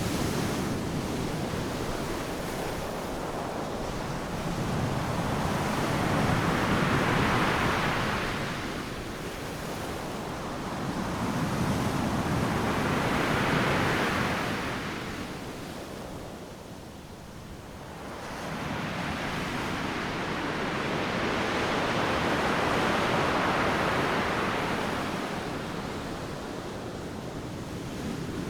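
Ocean surf: waves breaking and washing up the beach in three slow surges, each swelling and fading over several seconds, with a lull about two-thirds of the way through.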